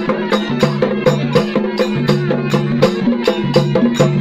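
Folk music with a quick, steady drum beat under a held, stepping melody line.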